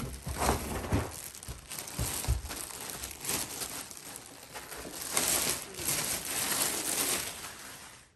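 Packaging crinkling and rustling as it is handled and opened, with a few soft handling bumps in the first couple of seconds.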